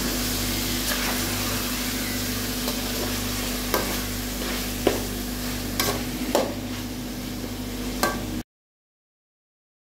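Marinated chicken pieces sizzling in hot oil in a metal kadai, stirred with a perforated spatula that knocks and scrapes against the pan several times; the chicken is being fried on medium flame until it cooks through. The sound cuts off suddenly about a second and a half before the end.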